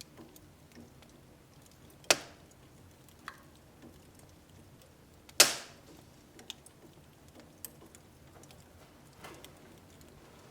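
Wood fire in a home wood-burning stove crackling softly, with scattered small ticks and two loud pops, about two and five seconds in, the second the loudest.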